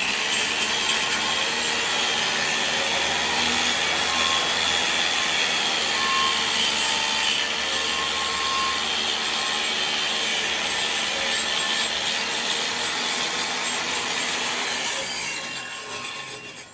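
Angle grinder starting up with a rising whine, running steadily against mild-steel plate, then winding down near the end.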